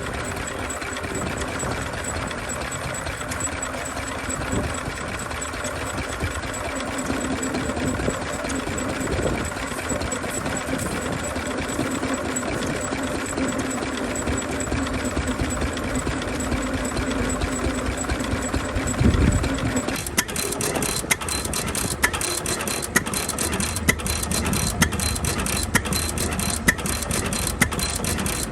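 Vintage engines running: a steady engine drone, then after about twenty seconds a different engine with a slow, regular beat of sharp knocks.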